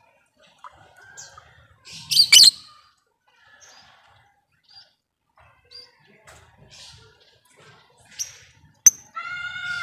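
Lovebirds calling: scattered short, sharp chirps and ticks, with a loud harsh burst about two seconds in and a sharp chirp followed by a harsh, drawn-out call near the end.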